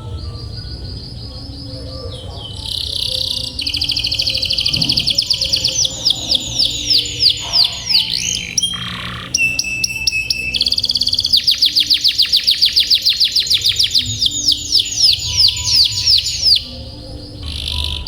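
Domestic canary singing long, rolling trills: rapid runs of fast repeated notes that change pitch from run to run, with a couple of short breaks between phrases.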